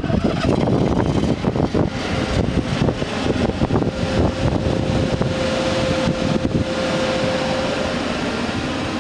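Generator on a utility bucket truck starting up and running steadily to power the aerial boom, with a steady whine joining about four seconds in and stopping near the end.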